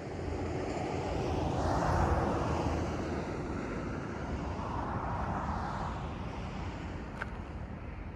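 Norfolk Southern freight train rumbling through a railroad crossing, a steady noise of engines and wheels on rail that swells about two seconds in and again about five seconds in.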